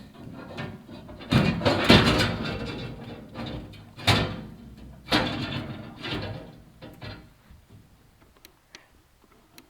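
Inspection camera knocking and scraping against the walls of a chimney flue as it is lowered, five or so heavy knocks in the first seven seconds, then only a few light clicks.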